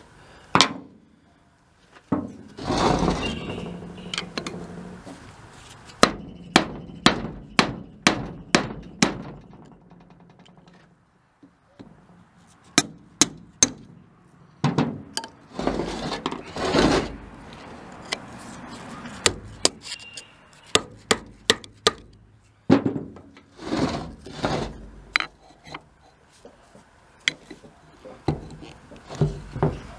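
Hand tools working on a Blackmer TDX2D vane fuel pump during teardown: runs of sharp hammer-like taps, about two a second, between stretches of scraping and handling of metal parts.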